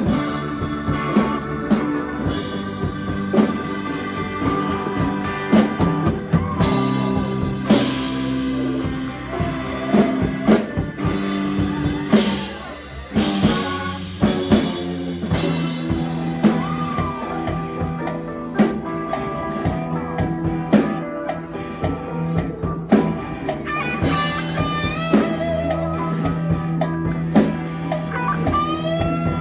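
Live blues-rock band playing an instrumental passage, with electric guitar over a drum kit.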